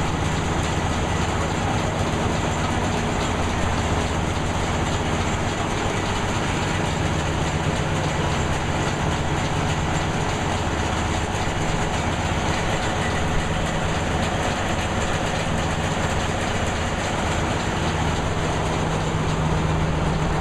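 Running sawmill machinery: a steady mechanical din over a low, even engine drone.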